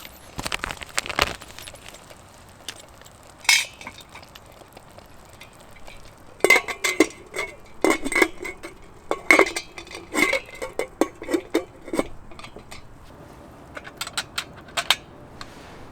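Metal camp cookware and utensils clinking and knocking together in scattered, irregular knocks, busiest from about six to twelve seconds in.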